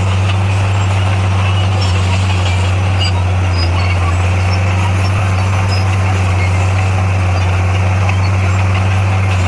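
Bulldozer's diesel engine running steadily, a constant low drone that holds the same pitch and level throughout.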